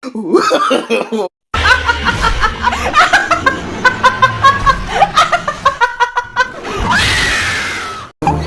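Dubbed-in laughter sound effects: rapid repeated snickering and chuckling, cut in and out abruptly, with a falling tone near the end.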